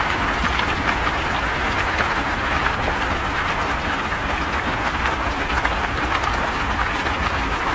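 Heavy rain falling on pavement, cars and leaves: a steady hiss full of small pattering ticks, over a constant low rumble of wind buffeting the phone's microphone.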